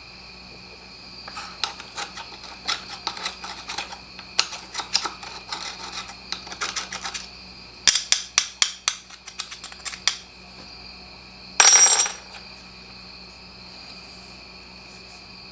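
Light metal clicking and tapping in irregular runs, with a quicker run of clicks about eight seconds in and a short scraping burst near twelve seconds: small metal parts of the blower's exhaust being handled.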